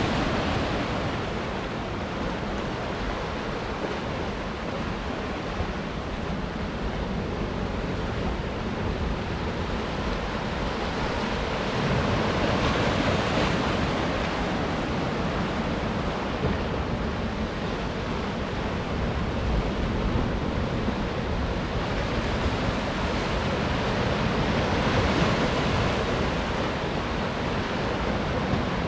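Ocean waves breaking on rocks: a continuous rush of surf that swells louder as each wave comes in, about 12 seconds in and again near 25 seconds.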